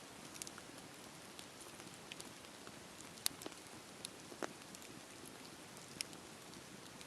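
Campfire crackling: a steady hiss of burning wood with scattered sharp pops and snaps, the loudest about three seconds in, with more about a second and about three seconds later.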